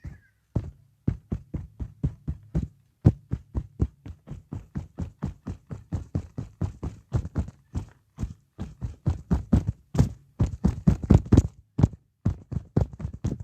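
Fast, even drum beat: short deep thumps at about four to five a second, with a low steady hum under the first few seconds.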